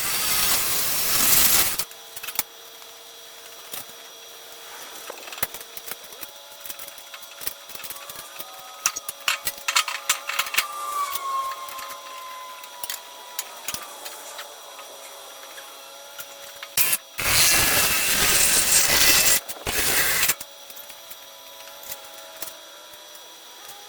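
A power tool runs in two loud bursts, one at the start and a longer one about 17 seconds in. Between the bursts come scattered clicks and knocks of hand work.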